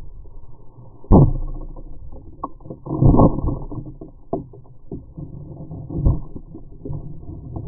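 Slowed-down, deep-pitched audio from a Multiplex Acromaster RC plane's onboard keychain camera during its crash. A low rumble is broken by three heavy thuds, about a second in, around three seconds and around six seconds, with lighter knocks between them.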